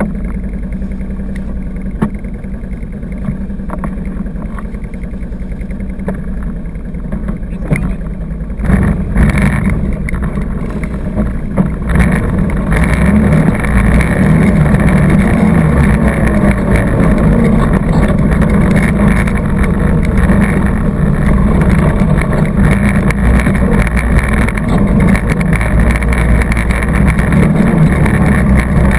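ATV engine running on a trail ride, moderate at first, then opening up about nine seconds in and running louder and harder to the end.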